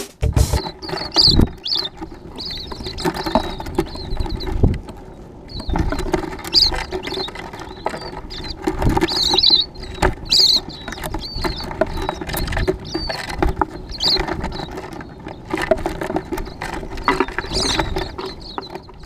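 Small birds chirping and twittering in short repeated calls, mixed with scattered taps and pattering, typical of birds pecking and landing at a bird feeder.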